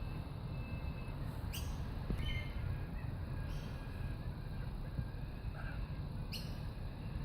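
Lorikeet calling: two short, sharp calls about five seconds apart and a few faint chirps, over a steady low rumble.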